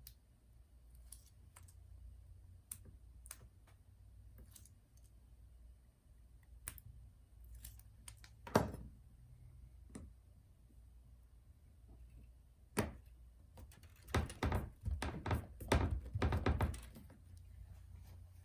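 Light clicks and taps of small laptop parts and tools being handled on a workbench, with a louder knock about halfway through and a quick run of knocks near the end, over a low steady hum.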